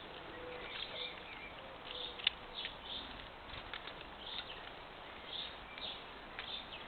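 Small garden birds chirping in short calls at a bird feeder over a steady hiss, with one sharp tap a little over two seconds in. The sound is dull and thin, as from a trail camera's microphone.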